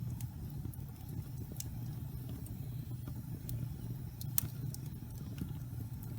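Wood fire burning in a fireplace: a steady low rumble from the flames with scattered sharp crackles and pops from the burning wood, the sharpest about four seconds in.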